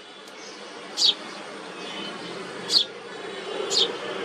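Songbird chirps: short, sharp calls sliding quickly down in pitch, three of them about a second or so apart, over a steady low buzzing hum.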